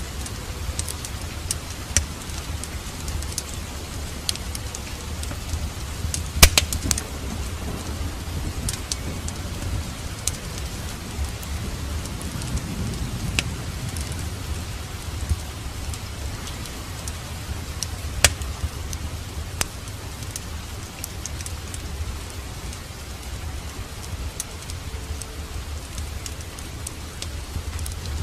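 Steady rain falling, with a low rumble under it, and the scattered sharp pops and snaps of a wood fire burning in a fireplace; the loudest snap comes about six seconds in.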